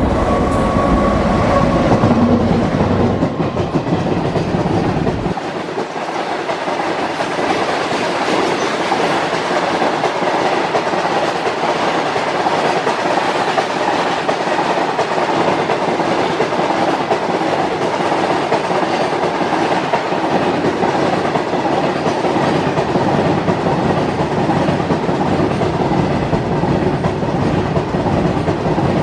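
WAG-9H electric locomotive passing close at speed with a heavy low rumble that drops away about five seconds in. After it, a long rake of tank wagons rolls by with a steady rush of wheels on rail and clickety-clack over the rail joints.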